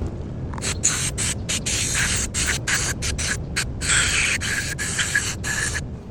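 Aerosol spray can hissing in a rapid series of short bursts for about five seconds, with brief gaps between them, over a steady low rumble.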